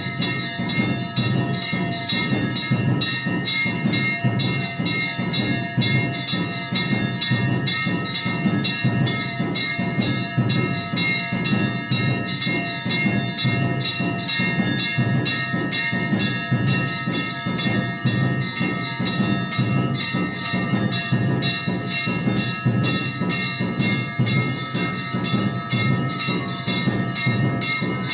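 Temple bells rung rapidly and without pause for the evening aarti, many strokes a second, their ringing tones overlapping into one continuous clangour.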